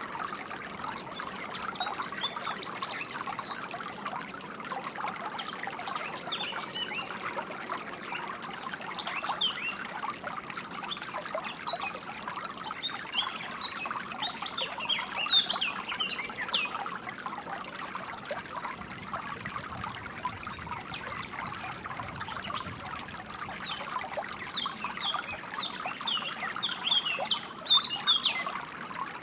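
A small stream trickling and splashing steadily, with songbirds chirping over it in short quick notes, busiest in the middle and near the end.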